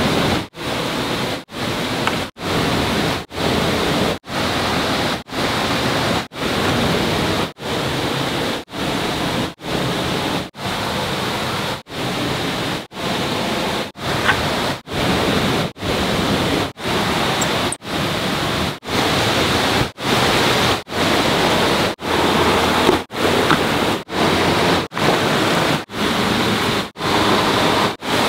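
A steady rushing noise with no clear tone, broken by short gaps about once a second.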